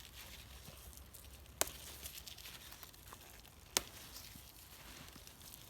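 Two sharp snaps about two seconds apart, over a faint rustle.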